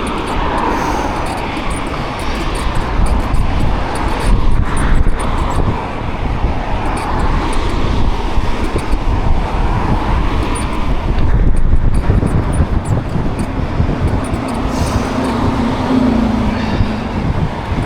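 Wind buffeting the microphone with road and traffic noise while riding an e-bike through city streets. A low steady hum from a passing vehicle comes in toward the end.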